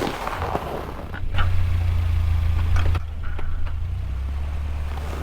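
Car engine running at low revs, a steady deep rumble that rises and falls in level a couple of times, with wind noise on the microphone in the first second.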